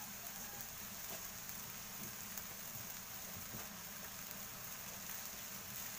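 Mashed eggplant and tomato mixture sizzling softly in a wok over the burner: a steady crackling hiss with a few faint ticks.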